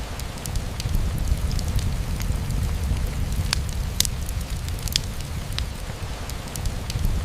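Rain falling on a window mixed with a crackling wood fire: a steady low rumble and hiss with scattered sharp clicks, the strongest a little after three and a half, four and five seconds in.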